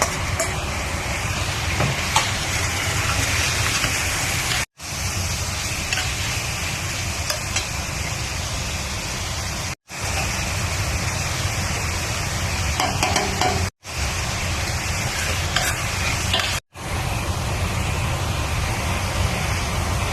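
Food sizzling and frying in a hot pan while being stirred, a steady frying hiss with scraping and stirring. It is broken by four very brief gaps of silence.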